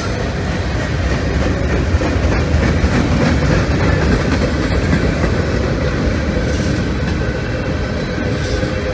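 Freight train cars (boxcars, tank cars and covered hoppers) rolling steadily past close by. There is a continuous low rumble with the clatter of wheels over the rail joints.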